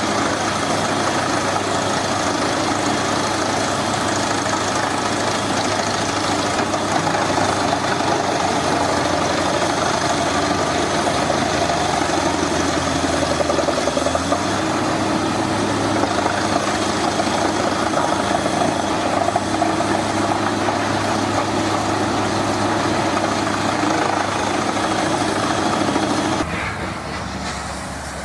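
A heavy machine's engine running steadily, its pitch shifting slightly about halfway through. The sound drops abruptly to a quieter one near the end.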